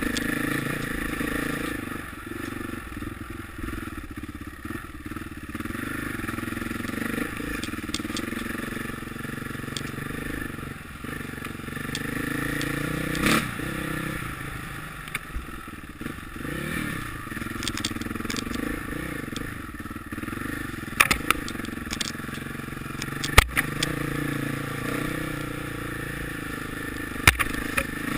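Motocross motorcycle engines running and revving, their pitch rising and falling, with a few sharp knocks in the second half.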